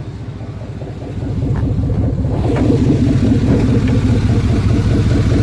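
Truck engine running steadily, growing louder about a second and a half in and then holding at the louder level.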